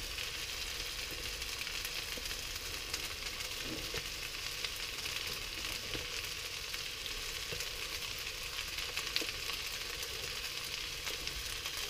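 Stir-fried rice vermicelli with prawns, beef and fresh greens sizzling steadily in a hot wok, with a few faint ticks.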